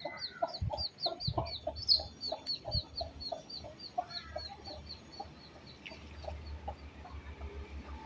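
A bird giving a rapid series of short, clipped call notes, about six a second, that slow and fade away near the end. A few dull low thumps come in the first three seconds.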